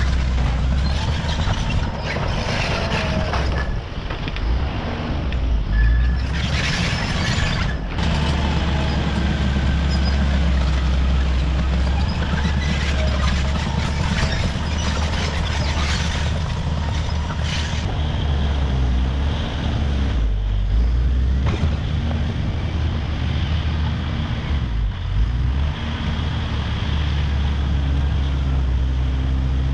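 Caterpillar D5 wide-track bulldozer working: its diesel engine runs with a steady deep drone, and louder bursts of clattering and squealing from the steel tracks come a few times, around two, seven and sixteen seconds in.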